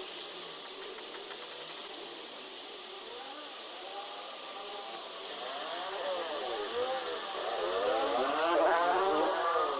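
Steady rain hiss, with a motor vehicle's engine approaching and passing: its note rises and falls and is loudest near the end.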